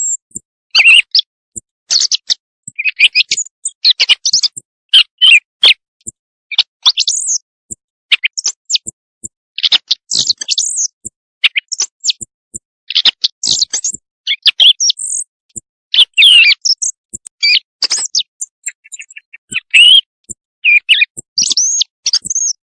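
Quail calls played as a night-time hunting lure: short, high chirps in quick clusters about every second, with brief gaps between them.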